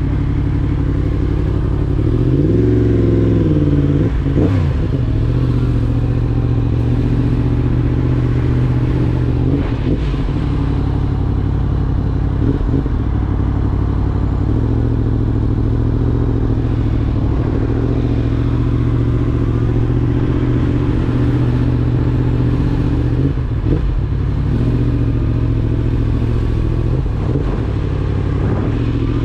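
Yamaha motorcycle engine running at low speed in a low gear, with a brief rise and fall in revs about two to three seconds in and the revs climbing again near the end.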